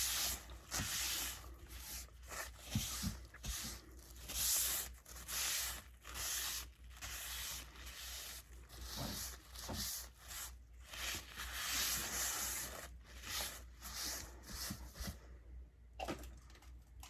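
Close-miked chewing of fries: repeated scratchy, crunching bursts about once or twice a second that die away about two seconds before the end.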